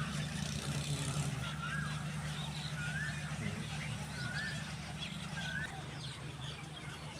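A bird repeating a short rising-and-falling call about four times, evenly spaced, over a steady low hum.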